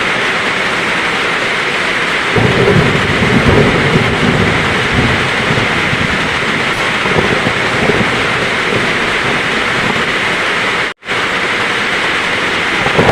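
Heavy rain falling steadily, with a rumble of thunder that swells about two seconds in and fades over a few seconds. The sound cuts out for an instant near the end.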